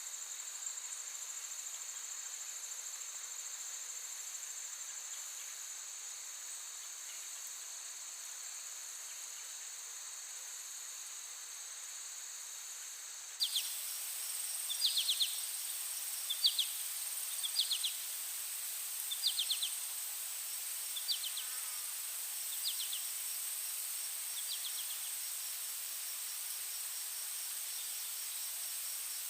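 A chorus of crickets and other insects trilling steadily at a high pitch. About halfway through it changes abruptly to a different insect chorus, with a series of short pulsed chirps about once a second that die away near the end.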